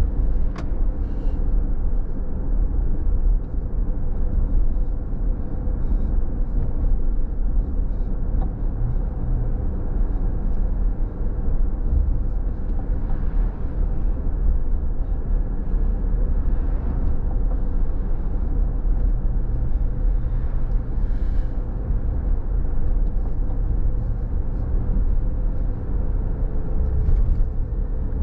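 Car being driven on a rainy road: a steady low rumble of engine and tyre noise with a faint steady hum. A few faint short ticks come through now and then.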